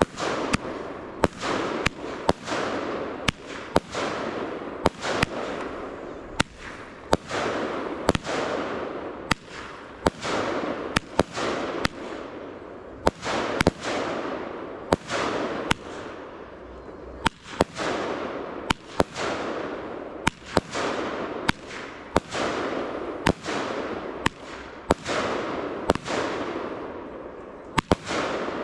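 Fireworks going off in a continuous barrage, with a sharp bang about every second. Each bang is followed by a fading noisy tail.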